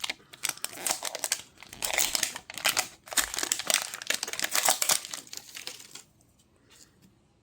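Crinkly plastic wrapper of a Fill the Fridge surprise toy ball being handled and pulled at in an attempt to open it, a dense run of crackling that dies away about five seconds in.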